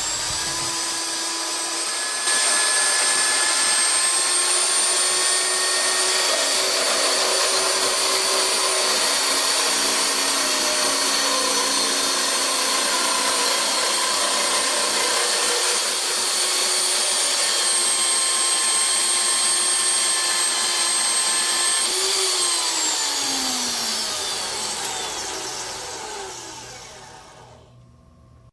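FEMI NG160 band saw's electric motor running with a steady whine over a rushing noise, a step louder about two seconds in. About 22 seconds in it is switched off and the whine falls in pitch as it winds down and fades.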